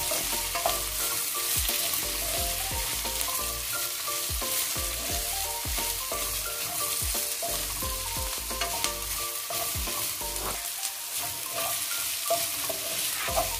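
Sliced onions, green chillies and curry leaves sizzling in hot oil in a wok as they fry soft, stirred with a wooden spatula that scrapes and knocks against the pan in quick, irregular strokes.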